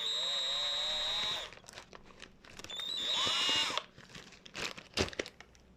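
Plastic packaging of screwdriver bits being handled: two squeaking, scraping rubs, the first about a second and a half long, the second shorter, then a few light clicks.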